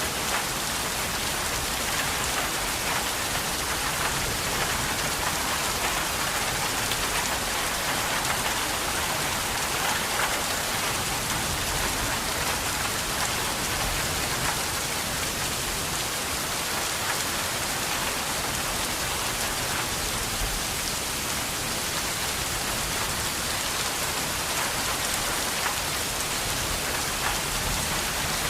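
Steady, heavy rain falling, a dense even hiss with many fine drop patters on a surface.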